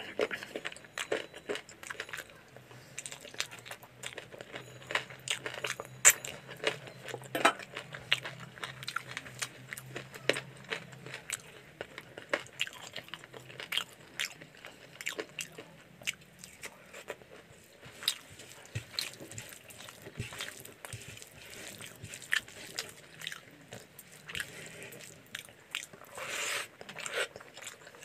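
Close-miked eating of chicken curry and rice by hand: chewing and biting, with many sharp irregular mouth clicks and crunches.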